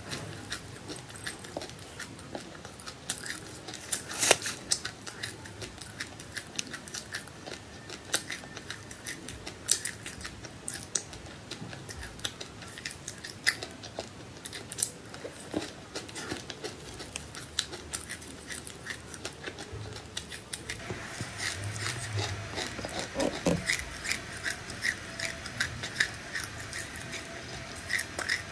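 Seeds being chewed close to the microphone: a steady run of crisp crackling crunches, busier and louder over the last several seconds.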